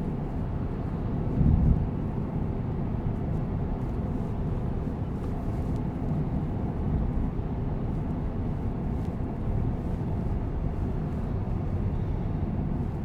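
Steady road and tyre noise heard from inside the cabin of a moving Tesla Cybertruck, an electric truck with no engine sound, with a brief louder low thump about a second and a half in.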